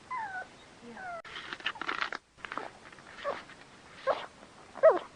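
Dog whining: two short falling whimpers in the first second or so. Then, after a brief dropout, a rustling scuffle and a few short animal cries, the loudest near the end.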